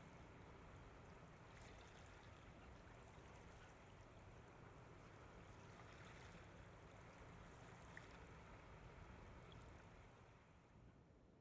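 Near silence: a faint, steady background hiss with a few tiny ticks, dropping slightly near the end.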